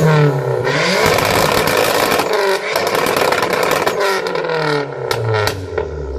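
Car engine revved hard through a loud aftermarket exhaust. It climbs quickly, is held at high revs with a dense crackle, then drops back, with a few sharp pops as it settles.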